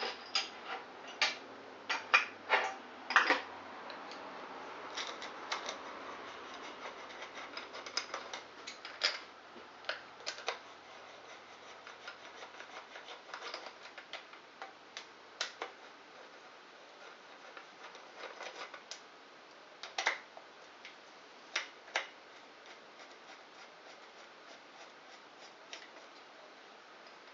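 Irregular light clicks and taps of small metal screws and an engine cover being unscrewed, lifted off and set down on a Honda SL125 motorcycle engine, with a faint rubbing sound in the first half.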